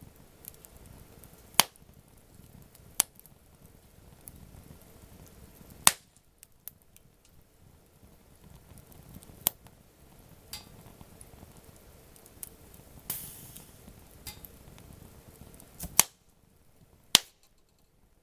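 Wood campfire burning and crackling, with sharp pops from the burning wood at irregular intervals and a brief hiss about thirteen seconds in.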